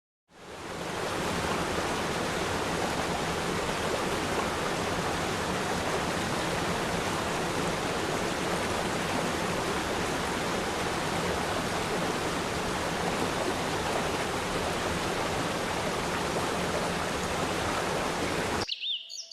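Steady rush of a waterfall, fading in at the start and cutting off abruptly near the end, when a few bird chirps come in.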